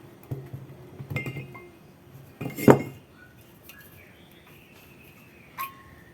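Metal parts and tools clinking and knocking against each other on a workbench: a few sharp clinks, the loudest about two and a half seconds in, then faint thin high-pitched tones near the end.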